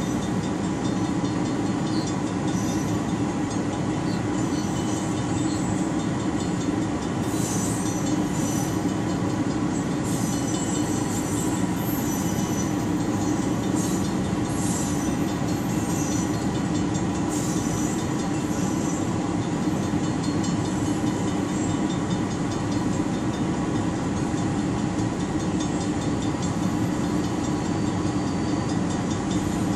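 Freight train of tank cars and hopper cars rolling slowly across a road crossing, heard from inside a waiting car: a steady rumble of wheels on rail, with brief high wheel squeals between about 7 and 18 seconds in.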